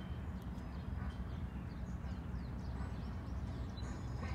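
Small birds chirping, many short quick chirps, over a steady low rumble.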